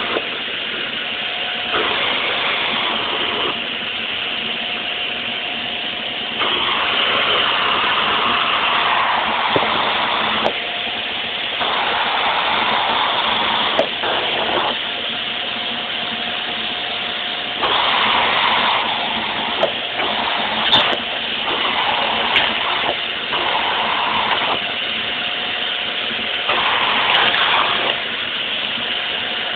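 Vacuum cleaner running with a steady whine under a rushing air noise. It gets louder and quieter every few seconds, with a few short knocks.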